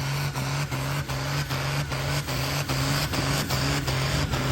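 Turbodiesel pulling tractor's engine running hard under load as it drags the weight-transfer sledge down the track, a steady low drone that grows slightly louder.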